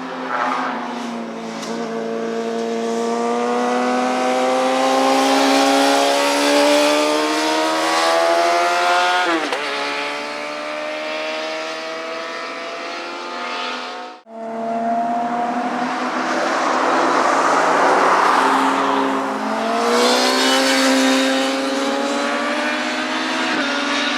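Motorcycles accelerating hard along a racetrack, engine pitch climbing steadily, with one bike passing close and its pitch dropping about ten seconds in. The sound cuts out for a moment around the middle, then more engines come on, rising in pitch again.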